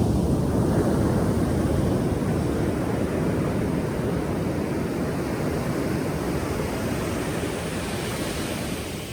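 Ocean waves breaking on a shore: a deep, steady rush of surf that slowly eases as a wave washes out.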